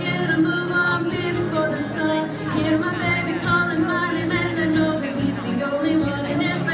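A group of women singing a song together, sustained notes in harmony.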